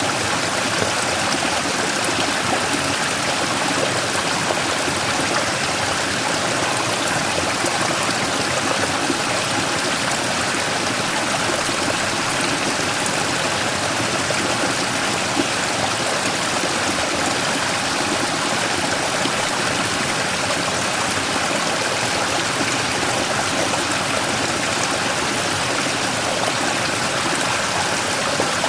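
Mountain stream splashing steadily over and around a large rock in a small waterfall, an even rushing of water with no other sounds.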